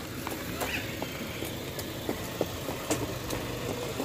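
A Subaru car's engine running low as the car rolls slowly past, a steady low hum with scattered light ticks over it.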